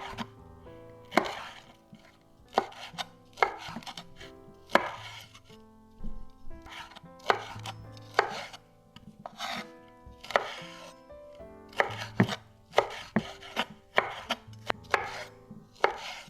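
A knife chopping on a cutting board in irregular strokes, about one or two a second.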